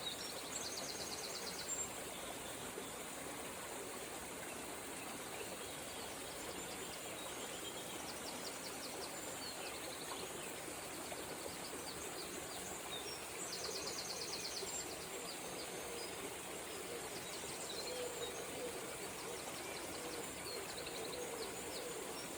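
A river flowing with a steady rush, with small songbirds singing over it in the dawn chorus. A high, fast trill comes near the start and again about two-thirds of the way through, among scattered shorter chirps.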